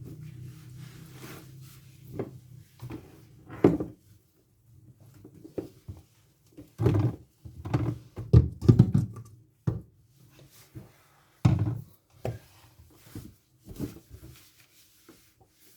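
Scattered knocks and thumps of kitchen items being handled and set down, about a dozen, the loudest between about 7 and 9 seconds in. A low hum fades out over the first few seconds.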